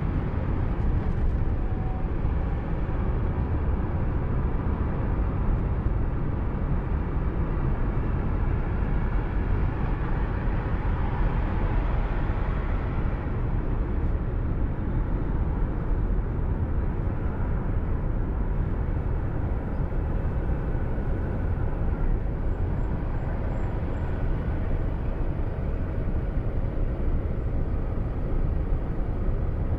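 Car driving on the road, steady engine and tyre noise heard from inside the car through the dashcam's microphone.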